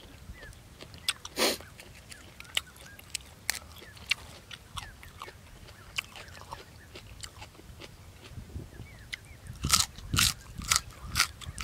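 Close-up mouth sounds of a person eating: wet chewing with scattered lip smacks and clicks. A few loud crunchy bites come near the end as a raw green vegetable dipped in chili sauce is bitten into.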